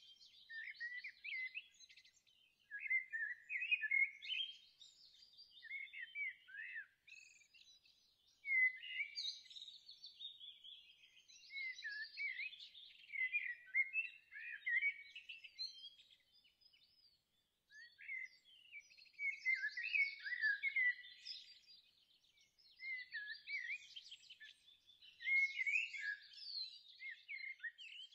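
Songbirds singing in phrases of quick, high chirps and twitters, each phrase a few seconds long with short pauses between them.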